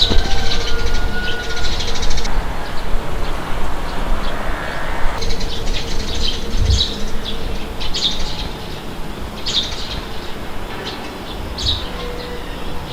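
Small birds chirping in short, scattered calls over a steady low rush of wind.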